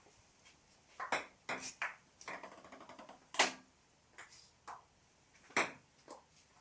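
Table tennis ball clicking sharply off bats and table, single hits spaced about half a second to a second apart, with a quick run of small fading bounces about two seconds in.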